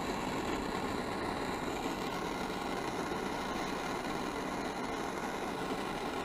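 Handheld gas torch flame burning with a steady hiss, heating a copper pipe fitting to sweat-solder it.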